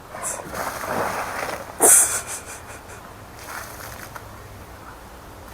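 Water from a canister poured onto the hot embers of a campfire, rushing and hissing. It is loudest about two seconds in, then dies down.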